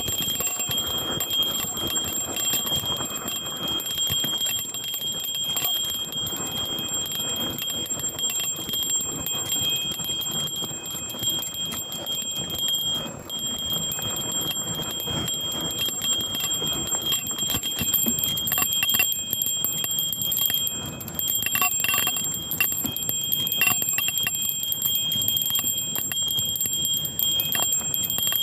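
A bell on a mountain bike ringing on and on as the bike is ridden downhill, with a steady high ring over the rush and rattle of the ride. There are sharp knocks from the bike near the end.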